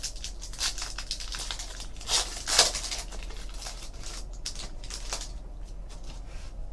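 Trading cards being handled: card stock sliding and clicking with a crinkling rustle, with two louder scraping strokes a little after two seconds in.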